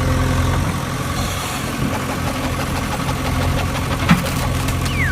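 An engine idling steadily at an even, unchanging pitch, with a short click about four seconds in.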